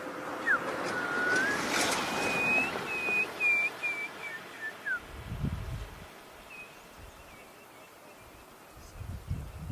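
A wild bird calling: a run of short, clear whistled notes with a few lower slurred whistles mixed in, over a noisy outdoor background, fading out about halfway through. Low rumbling noise follows about halfway through and again near the end.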